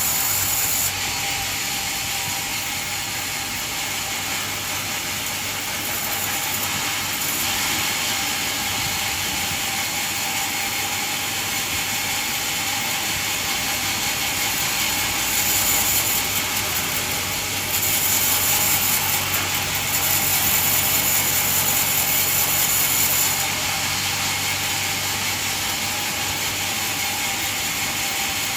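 Band sawmill running and sawing through a coconut log: a steady mechanical whir with a hissing cut. It grows louder for a few seconds about halfway through, and again for about five seconds after that.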